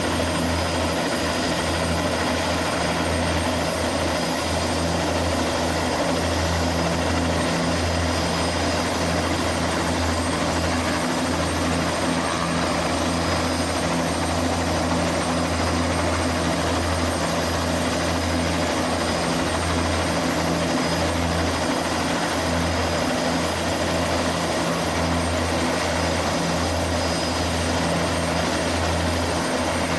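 Turbine helicopter running steadily, with a low rotor beat and a thin, high, steady turbine whine over a dense rush of noise.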